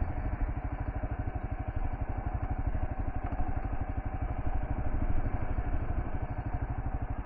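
Kawasaki KLR650 single-cylinder engine running steadily at an even, low pulse while the bike descends a dirt hill.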